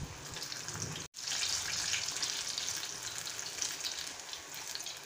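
Battered ripe plantain pieces deep-frying in hot coconut oil, a steady crackling sizzle. The sound drops out briefly about a second in and comes back louder.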